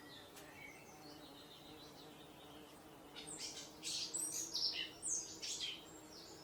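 Songbird singing: faint chirps, then about three seconds in a loud run of quick, high notes lasting two or three seconds.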